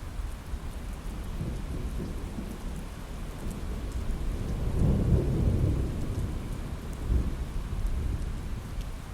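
Steady rain on a window with a low rumble of thunder that swells about four seconds in and peaks about a second later, with a second smaller swell near the end.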